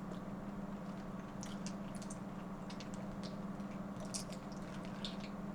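A person chewing and handling food from a seafood boil: scattered small wet clicks and squishes, irregular and close to the microphone, over a steady low hum.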